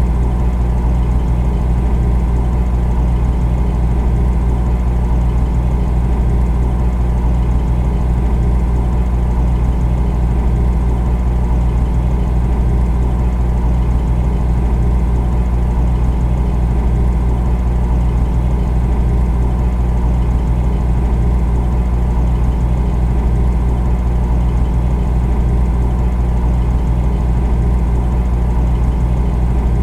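Refrigerator running: a steady, unchanging low hum.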